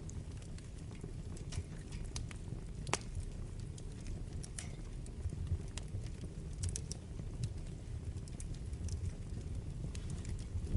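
Wood fire burning with a low steady rumble and irregular sharp crackles and pops, a louder pop about three seconds in.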